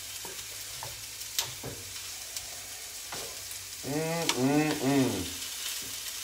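Minced pork sizzling in a frying pan while a wooden spoon stirs it, with short scrapes and knocks of the spoon against the pan. About four seconds in, a man's voice makes three short wordless syllables.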